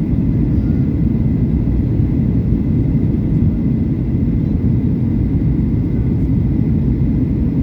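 Steady low-pitched cabin noise of an airliner in flight, with a faint steady high tone above it.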